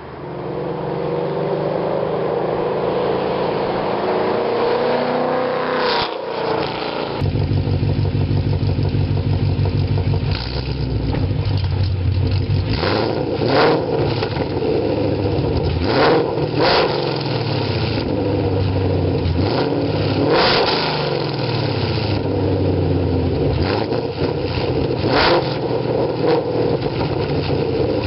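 2017 Ford Mustang GT's 5.0 V8 running through BBK headers and a full 3-inch MBRP Street cat-back exhaust, the revs rising and falling again and again, with several short sharp noises along the way.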